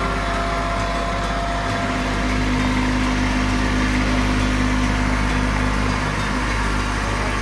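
Tractor engine running steadily, with an even hum that grows a little louder from about two seconds in until near the end.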